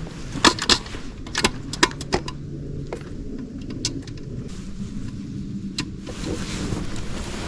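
Irregular sharp clicks and knocks, most of them in the first three seconds, over a low steady engine hum.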